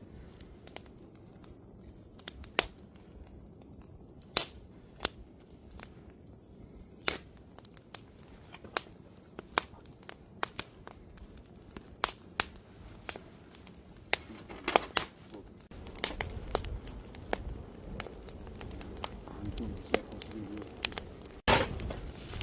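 Wood campfire crackling, with irregular sharp pops. About two-thirds of the way in, a low rumble joins underneath.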